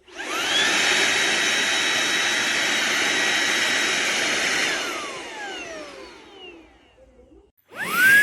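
Shark WV201 WandVac handheld vacuum motor starting with a rising whine that settles to a steady high pitch. It runs for about four and a half seconds, shuts off and winds down with a falling whine over about two seconds, then starts up again just before the end.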